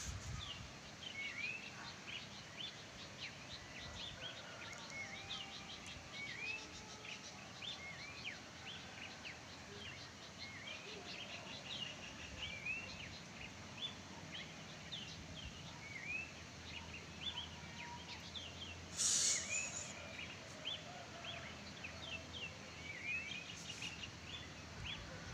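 Wild birds chirping, many short quick calls overlapping over a steady faint outdoor hiss, with a brief louder rush of hiss about two-thirds of the way through.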